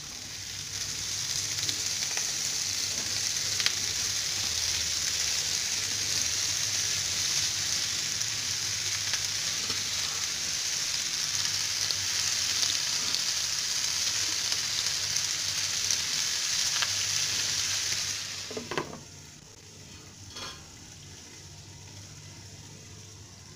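Chopped okra sizzling loudly and steadily in hot coconut oil in a kadai just after it goes in, with a few stirring clicks. After about eighteen seconds the sizzle drops suddenly to a quieter, muffled hiss as a glass lid covers the pan.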